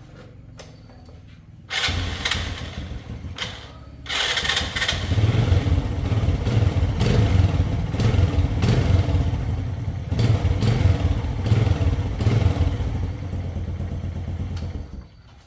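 Motorcycle engine being started: it fires briefly about two seconds in, drops back, then catches again about four seconds in. It runs for about ten seconds with the revs rising and falling, then cuts off abruptly near the end.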